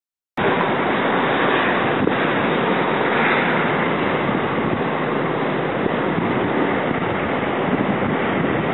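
Blizzard wind blowing hard across the microphone, a loud steady rushing noise that cuts in suddenly about half a second in.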